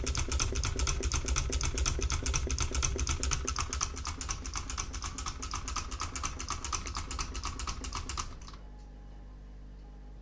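Homemade Stirling engine with a kitchen-sponge displacer running, a rapid regular clatter of about six clicks a second. The clatter gets quieter about four seconds in and stops abruptly about eight seconds in, leaving a faint low hum.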